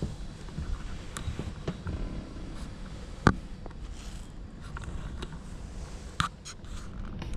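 Passenger train heard from inside the carriage while running: a steady low rumble with scattered clicks and knocks, a sharp crack about three seconds in and another near the end.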